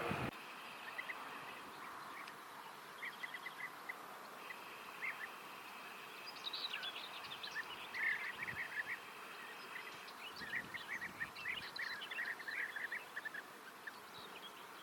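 European bee-eaters calling: short, rolling chirps from several birds, coming in clusters. A faint steady high buzz sits behind them for part of the time.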